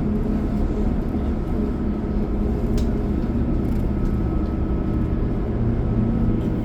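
Moving city bus heard from inside the cabin: steady engine and drivetrain hum over road rumble, with a faint constant whine above it.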